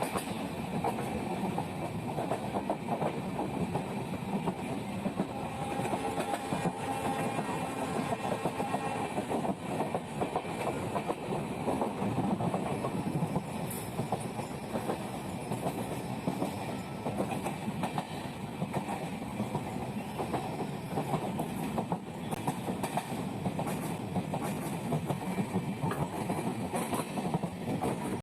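A moving train running steadily, with many quick clicks of wheels over the rails laid over its continuous running noise.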